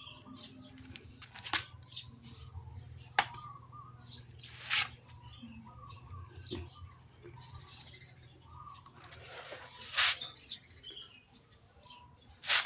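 Small birds chirping here and there, with a few short bursts of noise about 1.5, 3, 5 and 10 seconds in and again at the end, over a steady low hum.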